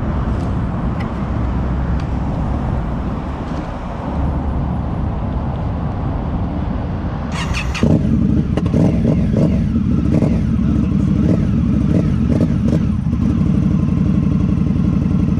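Indian Scout Bobber motorcycle's V-twin engine running. About eight seconds in, after a short rattle, it turns louder with a steady, rapid pulsing.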